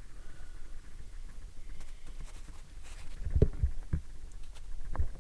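A few low thumps and clicks close to the microphone, from handling or movement, about three seconds in and again near the end, over a low steady rumble.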